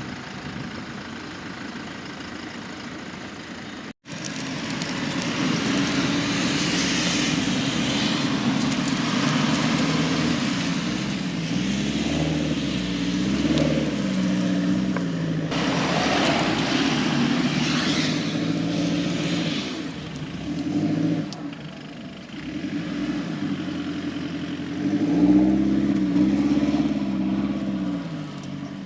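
Off-road vehicle's engine running and revving up and down again and again under load, its pitch rising and falling, with a rushing noise over it. The sound drops out for a moment about four seconds in.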